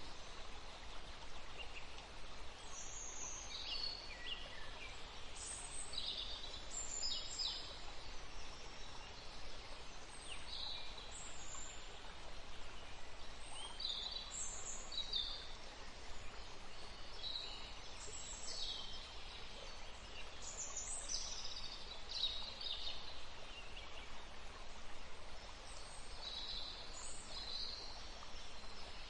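Forest birds chirping and calling in many short, high-pitched phrases, one after another and sometimes overlapping, over a faint, steady background hiss.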